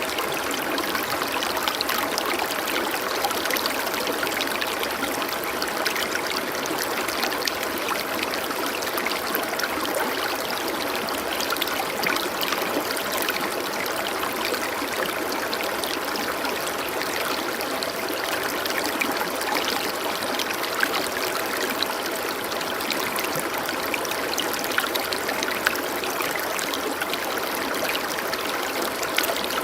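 Running water of a stream, flowing and trickling steadily with many small splashes and droplets.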